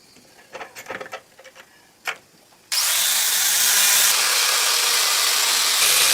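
A few light taps and clicks, then about three seconds in a power tool starts abruptly and runs steadily with a loud, full-range hiss.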